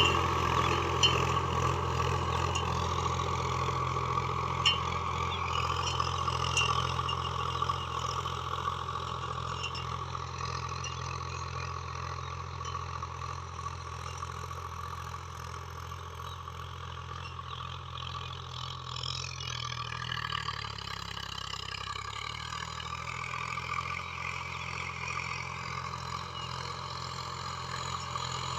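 Swaraj 745 DI tractor's diesel engine running at a steady low speed. It grows fainter over the first fifteen seconds, and its note dips briefly about twenty seconds in.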